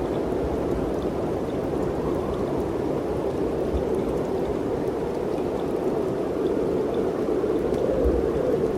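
Mountain wind blowing steadily, a continuous rushing noise that swells slightly near the end.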